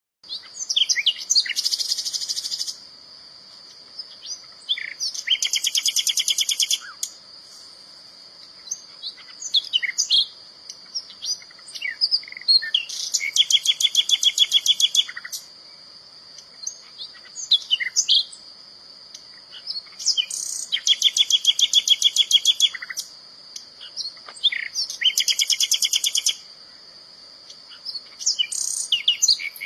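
Common nightingale singing: varied song phrases a few seconds apart, several of them fast runs of repeated notes. A steady high-pitched hum runs underneath.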